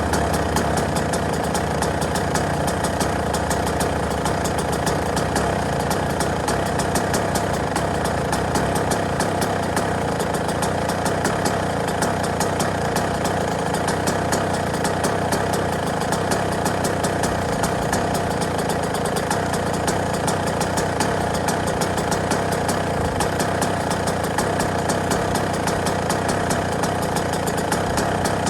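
Yamaha YZ125's two-stroke single-cylinder engine idling steadily, a fast, even run of exhaust pulses with no change in speed.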